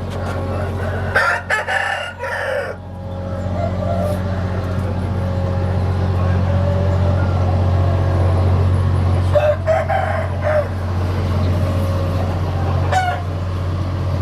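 Roosters crowing: one crow about a second in and another about eight seconds later, with a shorter call near the end, over a steady low hum.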